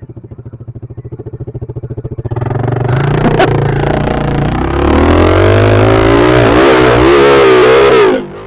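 Pit bike's single-cylinder engine putting at an even, slow beat, then revving up about two seconds in and running hard under throttle, its pitch wavering up and down. The sound cuts off suddenly near the end.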